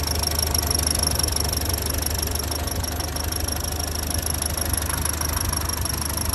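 Land Rover Series 1 2-litre four-cylinder petrol engine idling steadily when warm, running evenly and sounding healthy, as it should.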